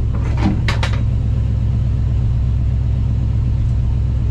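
1985 Ford F-250's engine idling steadily, with a few brief sharp sounds in the first second.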